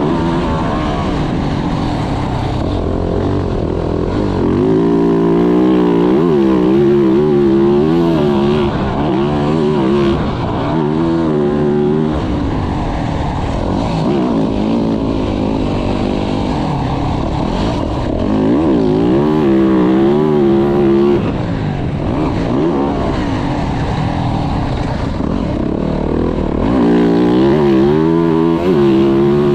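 A 2024 Yamaha YZ450F's single-cylinder four-stroke engine revving up and down again and again, its pitch climbing and falling with each burst of throttle, with steady wind and rushing noise underneath.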